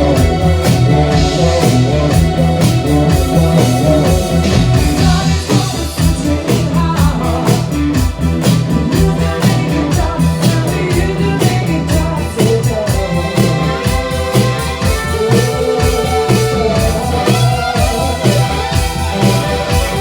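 Rock band playing together: a Flying V electric guitar over a drum kit with a steady beat.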